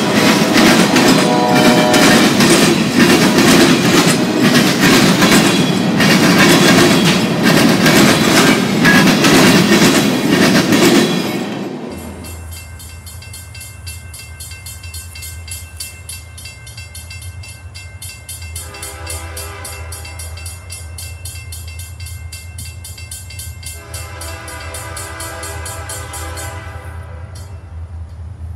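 Freight train of boxcars rolling past, wheels clicking over rail joints, which cuts off suddenly about twelve seconds in. A steady low rumble follows, with two long horn blasts, each a chord of several notes.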